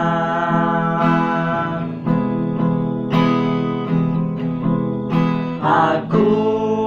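Acoustic guitar strumming slow chords about once a second, with a singer's voice coming back in near the end.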